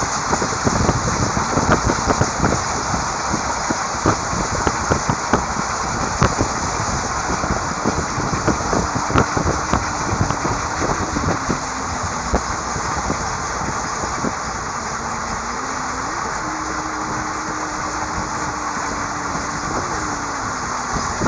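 Moving train running on the rails: a steady rumble and rattle with many irregular clacks and knocks, and a faint thin tone that steps up and down in pitch in the second half.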